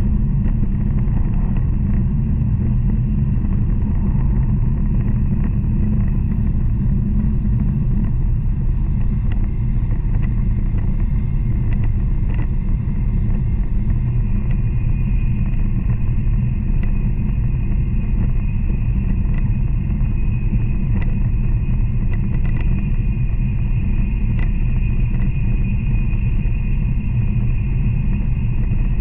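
Running noise of an N700 series Shinkansen at speed, heard from inside the passenger car: a steady low rumble, with a higher hiss joining in about halfway through.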